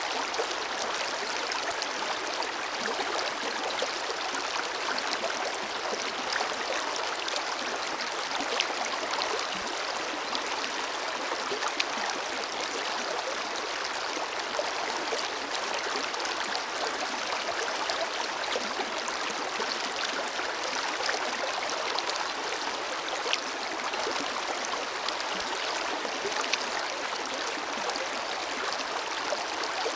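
Forest river flowing steadily, a constant rush of water with small splashes and trickles scattered through it.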